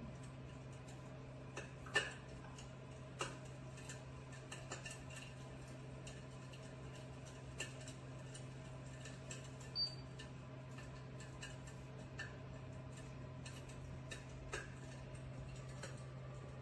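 Electric fireplace insert's simulated fire-crackling sound: irregular soft pops and snaps every second or two, the loudest about two seconds in, over a steady low hum.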